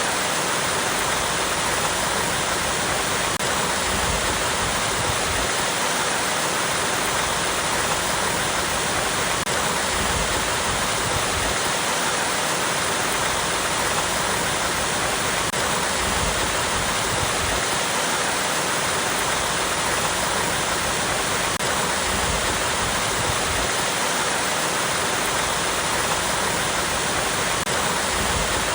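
Small waterfall splashing over rocks, a steady, even rush of falling water.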